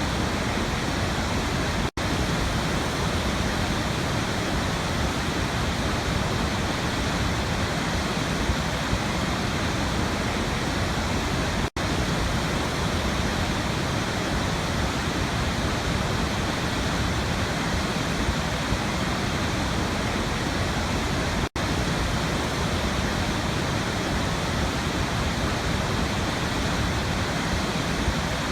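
A waterfall rushing in a steady, even roar of falling water, broken by three very brief dropouts about ten seconds apart.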